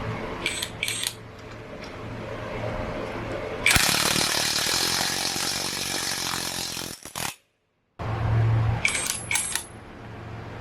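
Small steel bike parts clinking against metal, a few sharp clinks at a time. In the middle a loud steady whirring noise, likely a power tool, runs for about three and a half seconds and cuts off suddenly.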